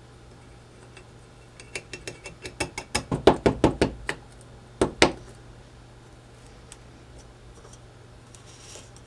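A quick run of mechanical ratcheting clicks that speeds up and grows louder for about two and a half seconds, then two sharper clicks about a second later.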